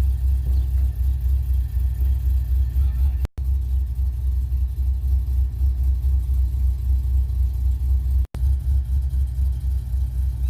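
Cammed GMC Denali V8 idling after a cold start, with a deep, choppy lope from the aggressive camshaft. The sound drops out for an instant twice, about a third of the way in and near the end.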